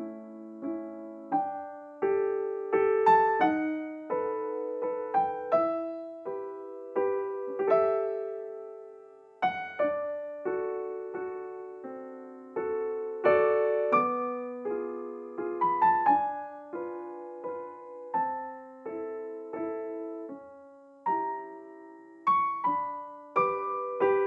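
Background piano music: a gentle melody and chords of struck notes that each ring and fade.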